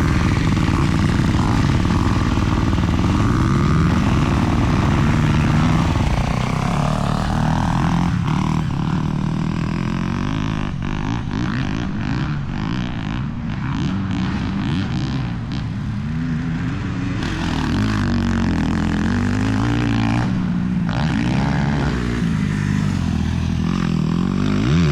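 Motocross dirt bike engine running hard, its pitch rising and falling again and again as the throttle opens and closes, with a rushing noise over it for the first few seconds.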